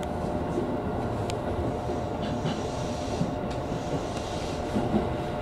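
E233 series electric commuter train running along the track, heard from the driver's cab: a steady rumble of wheels on rail with a constant hum.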